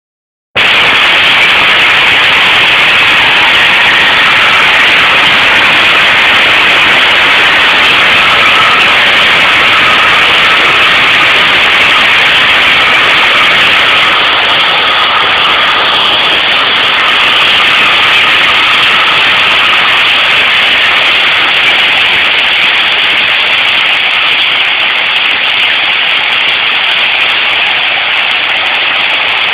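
Hailstorm: hail and heavy rain pelting down in a loud, steady hiss that eases only slightly in the second half.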